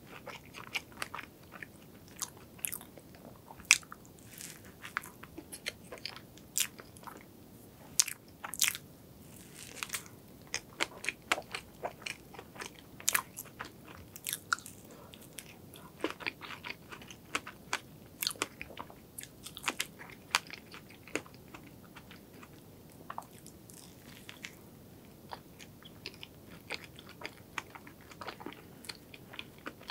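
Close-miked biting and chewing of a soft white-bread sandwich with pink cream filling: many sharp mouth clicks and smacks at irregular intervals, thicker in the first two-thirds and thinning out near the end.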